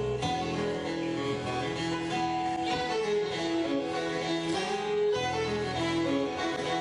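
Bluegrass band playing an instrumental introduction: acoustic guitar strumming with a fiddle carrying the melody over a double bass.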